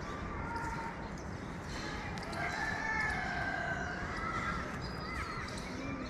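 Birds calling over steady outdoor background noise, with one long drawn-out call about two seconds in and a few shorter calls near the end.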